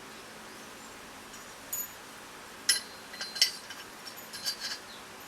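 Small metal fork parts clinking and tapping against each other as they are handled, a few light clicks with a brief metallic ring, spaced irregularly through the second half.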